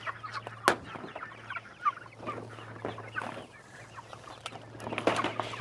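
Chickens clucking, mixed with a few sharp clicks and knocks, the loudest just under a second in, over a faint steady hum.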